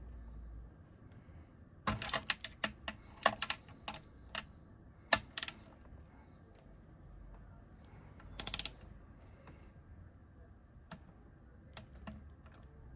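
Sharp metallic clicks and clinks of small engine parts and hand tools being handled during engine assembly, in several quick clusters, with a brief rattle about eight and a half seconds in.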